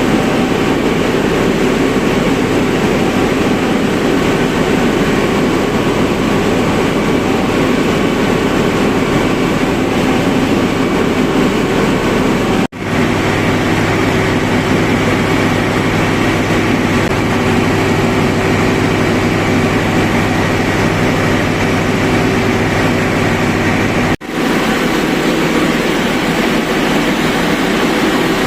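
Deutz BF8M1015 V8 turbo-diesel generator engine running steadily and loud. The sound breaks off for an instant twice and resumes, its low hum a little different between the breaks.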